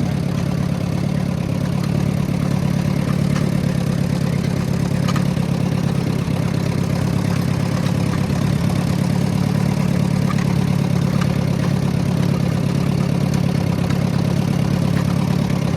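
Ford N-series tractor's four-cylinder flathead engine running steadily at low speed as the half-track tractor is driven through a turn.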